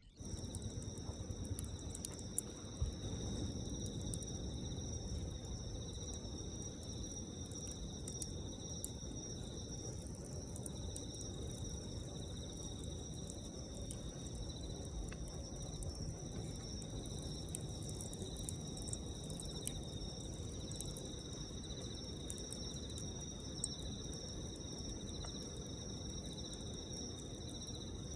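A campfire burning with a few sharp crackles, among them a loud pop about nine seconds in, over a low steady rumble. Insects trill steadily at two high pitches the whole time.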